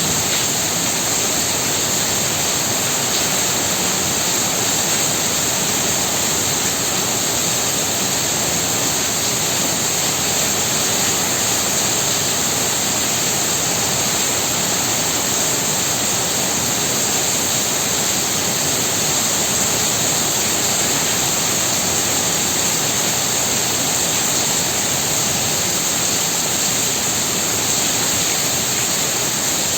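Heavy rain pouring down steadily, a dense even hiss with no single drops standing out.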